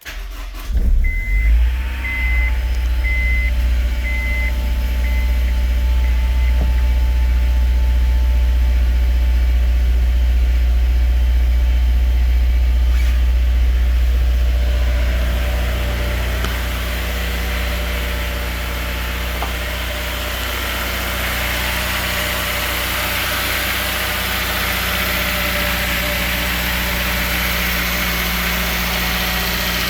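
2004 Honda S2000's four-cylinder engine cold-starting: a brief crank, then it catches at once and runs at a fast, steady cold idle that settles slightly lower about fifteen seconds in. A short beep repeats six times during the first few seconds.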